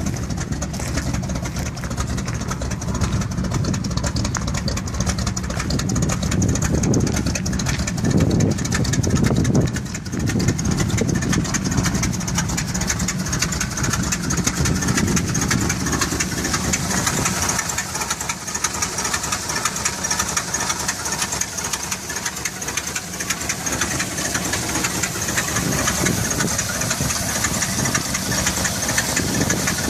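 1984 Dodge pickup truck engine idling steadily, louder for a few seconds about eight seconds in, with a hiss coming up in the second half.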